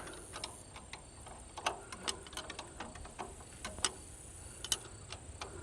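Scattered sharp metallic clicks and taps of a wrench working the 9/16 carburetor mounting bolts loose. The clicks come irregularly, a few each second, and are faint.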